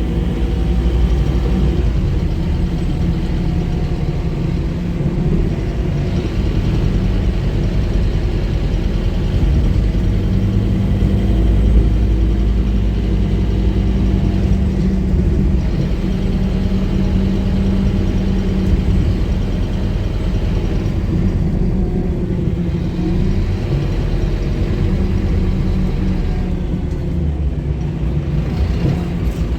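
Scania K230UB bus's five-cylinder 9-litre diesel engine running steadily, with a low, even drone that rises slightly in pitch about a third of the way through.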